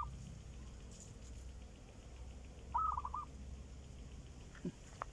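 A bird calling: one short run of four or five quick, clipped notes, with the tail of a similar run at the very start.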